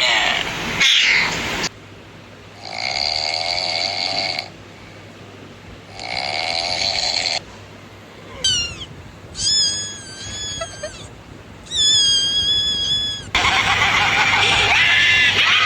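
A string of short meme sound clips of animal sounds, among them cat-like cries and a snore-like sound, each starting and stopping abruptly, with a louder, noisier clip near the end.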